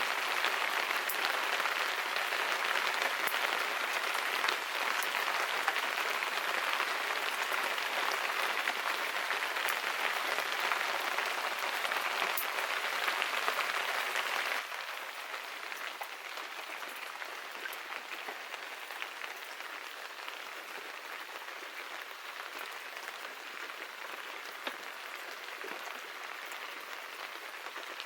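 Steady rain falling, an even hiss with scattered ticks of individual drops. About halfway through it drops suddenly to a quieter, thinner level.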